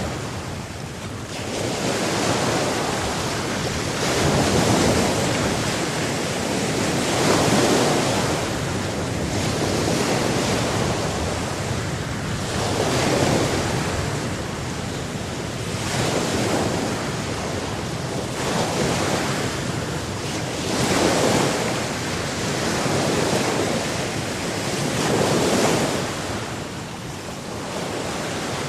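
Ocean surf: waves breaking and washing in one after another, the rush of water swelling and falling away every few seconds.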